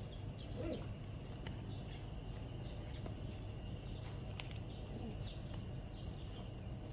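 Outdoor ambience: a steady low rumble with faint high chirping repeating over it, and a few faint clicks.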